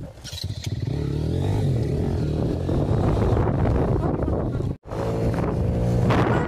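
Motorcycle engine running at a steady pace while riding, with wind on the microphone. The sound cuts out abruptly for a moment a little past the middle, then the engine sound resumes.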